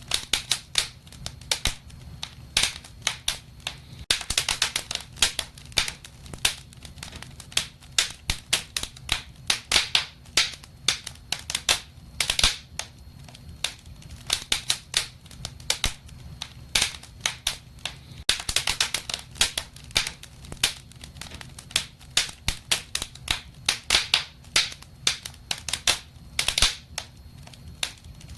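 Wood fire in a fireplace crackling: irregular sharp pops and snaps, often in quick clusters, over a faint low rumble.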